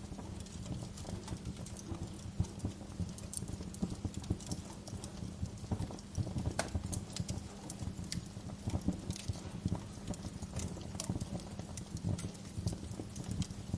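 Wood fire in a fireplace crackling: irregular sharp pops and snaps over a steady low rumble of burning logs.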